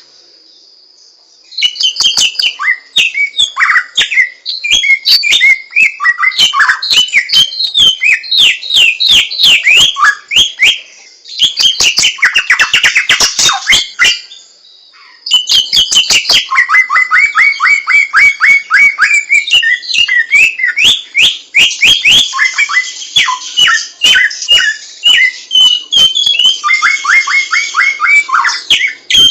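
A samyong bird singing long, rapid runs of chirps and quick falling notes. The song pauses briefly at the start and again about halfway through.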